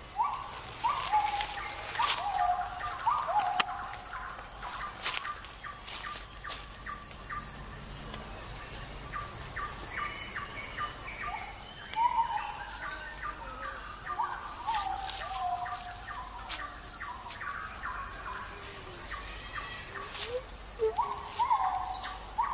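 Birds chirping: short, quick, rising notes and brief high calls repeated irregularly. A faint steady high tone runs beneath them.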